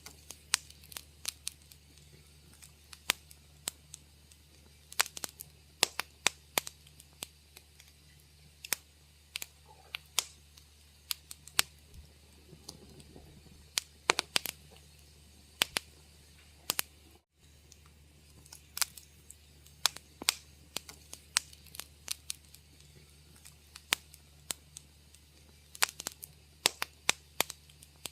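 Wood fire crackling in a fireplace: irregular sharp pops and snaps, some close together and some spaced out, over a faint low steady hum. The sound drops out for an instant about two-thirds of the way through.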